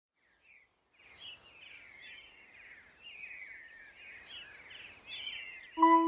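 Birds chirping in quick, repeated, falling twittering phrases over a faint hiss. Steady held tones of electronic ambient music come in just before the end.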